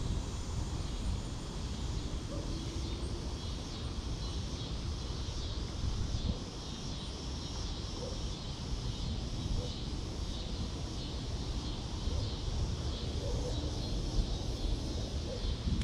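Outdoor ambience: wind buffeting the microphone with a steady rumble, over an even high hiss.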